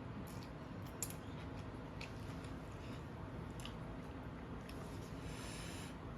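Close-miked chewing of noodles, with scattered small clicks and one sharp click about a second in, over a steady low hum.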